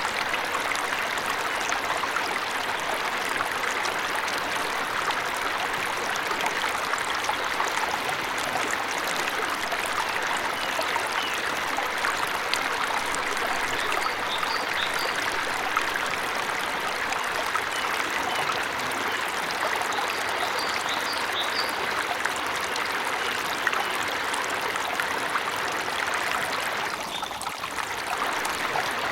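Waterfall in a forest: a steady rush of falling water, with a few faint, short, high bird chirps about halfway through. The water noise dips briefly near the end.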